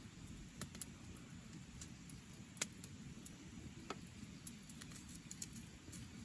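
Campfire crackling: scattered sharp pops and ticks, one louder pop a little before the middle, over a low steady background rumble.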